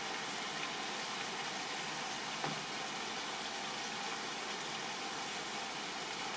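Marinated chicken tikka pieces sizzling in a large pan on the stove, a steady even hiss, with one small tap about two and a half seconds in.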